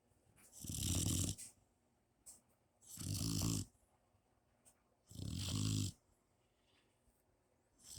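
Mastiff puppy snoring in its sleep: three low snores with a breathy hiss, about two seconds apart, and a fourth beginning right at the end.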